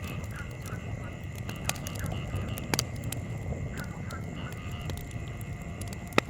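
Wood campfire burning, with a low rumble and sharp crackles and pops scattered through it; the loudest pop comes near the end. A steady high-pitched whine runs underneath.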